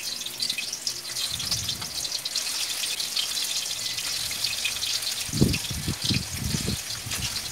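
Chicken pieces frying in hot oil in a wok: a steady sizzle dotted with small crackles of spattering oil. A few low thumps come in over the last two seconds.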